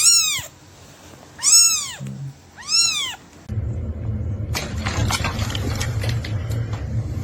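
A cat meows three times, each short call rising and then falling in pitch, a little over a second apart. A steady low rumbling noise follows.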